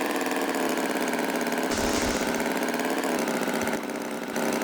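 Small engine idling with a steady, fast chug; it turns a little quieter near the end.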